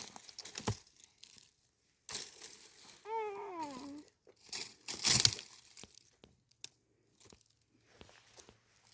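Intermittent rustling and crinkling handling sounds, with a short falling voice-like sound about three seconds in and a louder rustle about five seconds in.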